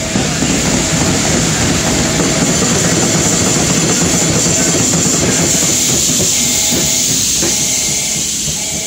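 Freight train passing close by: an EF65 electric locomotive, then the 16-axle Shiki 800B2 heavy-load wagon and a caboose, steel wheels clattering over the rail joints in a dense run of clacks over a steady high hiss. The noise eases a little near the end as the caboose goes by.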